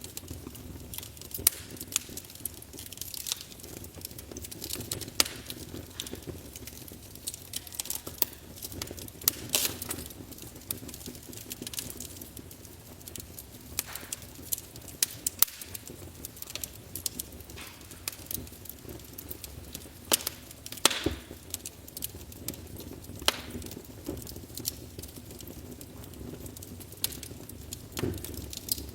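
Wood fire burning in a fireplace, crackling with irregular sharp pops and snaps over a steady low rush of the flames. A few of the snaps are much louder than the rest.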